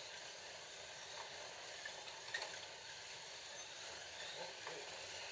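Several Scalextric slot cars running around the track: the steady whir of their small electric motors, rising and falling in pitch as the throttles change, with a few light clicks.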